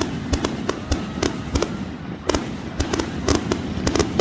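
Fireworks and firecrackers going off: a rapid, irregular string of sharp bangs and pops, several a second.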